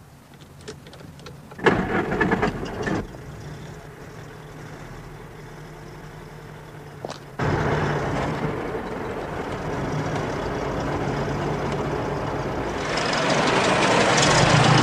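Car engine starting about two seconds in and running steadily, then revving up sharply about seven seconds in and getting louder near the end as the car drives off.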